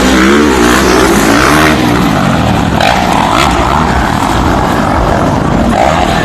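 A pack of motocross dirt bikes revving hard, several engines' pitch rising and falling together, with a couple of sharp cracks about three seconds in.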